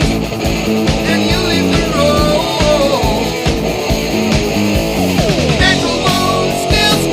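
Rock music: a lead guitar playing bending, gliding notes over a steady drum beat.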